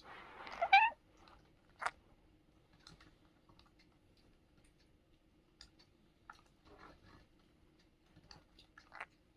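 Indian ringneck parrot giving one short, loud squawk near the start, followed by scattered small clicks and taps, with a sharper click about two seconds in and another near the end.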